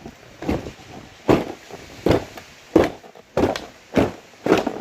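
A run of short, irregular knocks, about two to three a second.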